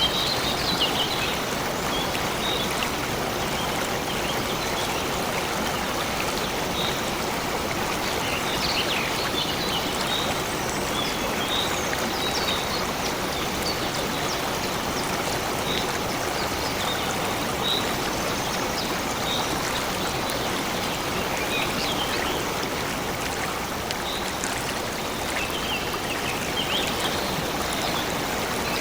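A stream flowing steadily, with small birds chirping on and off above the rush of the water.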